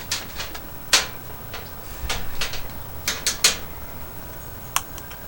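Sharp plastic clicks and knocks, irregularly spaced, as the lid of a small plastic Toxic Waste candy barrel is twisted and pried at to get it open.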